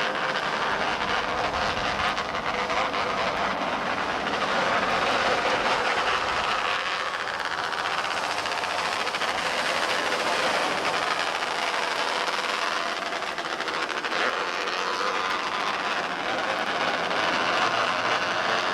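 Engines of a pack of small race cars running together on the track, a steady, dense mechanical drone that swells and eases a little as the cars pass.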